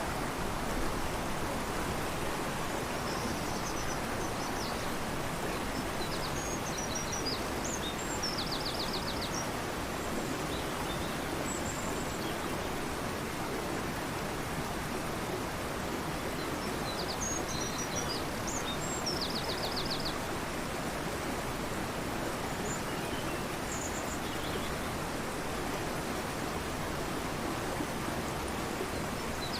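Fast-flowing river rushing steadily. Over it a songbird sings short phrases of high notes ending in a quick trill, a few seconds in and again at about the middle.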